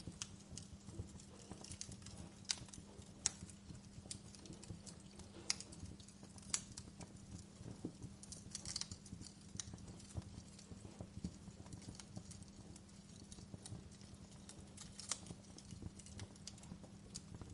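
Wood fire crackling in a fireplace: irregular small snaps and crackles, with a few louder pops, over a steady low hum.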